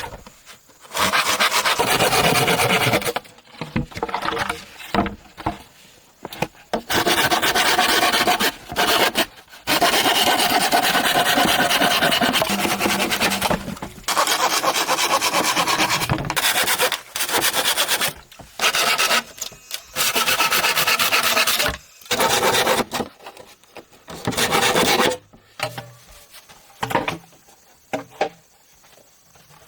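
Rasping and scraping on wood or bamboo, in long runs of rapid strokes broken by short pauses.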